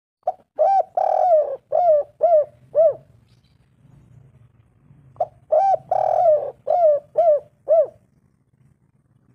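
Spotted dove cooing: two phrases of about six arched coos each, the first starting just after the beginning and the second about five seconds in, each with a longer note second in the phrase.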